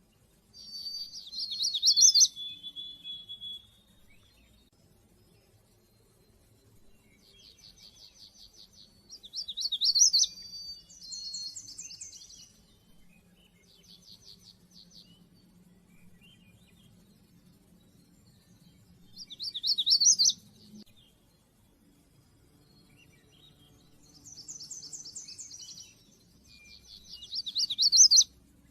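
A songbird singing: phrases of rapid high trills, each building to a loud quick flourish, repeated four times about every eight to ten seconds, with quieter trilled phrases in between.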